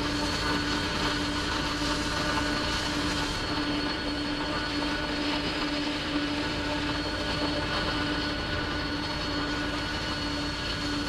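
Jet aircraft engines running steadily: a constant rumble and hiss with a held hum and a fainter high whine on top.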